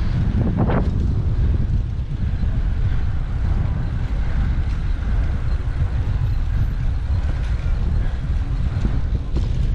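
Wind rumbling steadily on the microphone of a GoPro mounted on a moving bicycle, mixed with road traffic noise.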